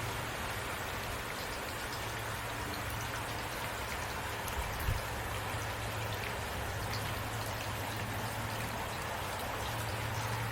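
Heavy rain falling steadily: a dense, even hiss of drops with a steady low hum underneath, and one short thud about five seconds in.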